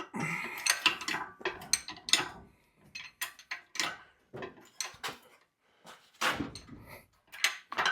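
Irregular metallic clanks and clinks, thick in the first two seconds and then a few at a time, as an engine is hoisted up out of a truck's engine bay.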